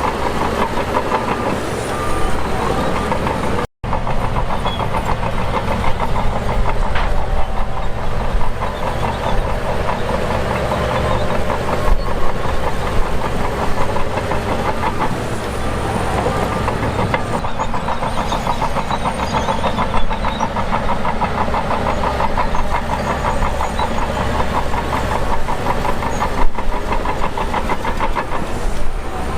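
Shantui DH17 bulldozer working, its engine running steadily with dense mechanical clatter. The sound drops out for an instant about four seconds in.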